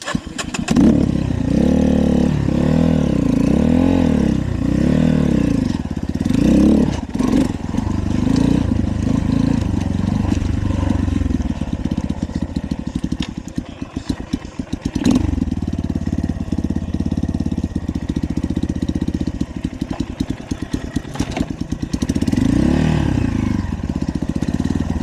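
Dirt bike engine revving up and down several times, then running at a low, steady speed with its firing pulses distinct, and revving once more near the end.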